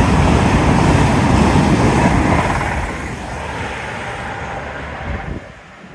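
Great Western Railway Intercity Express Train passing at speed below the bridge, a loud rush of noise that eases after about two and a half seconds and drops away near the end.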